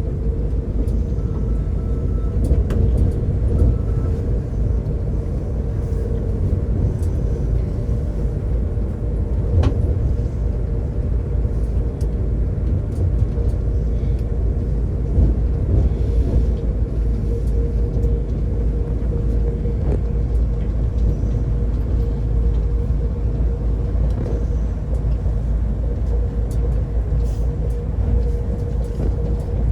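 Passenger train running, heard from inside the carriage: a steady low rumble with a constant hum and a few faint clicks.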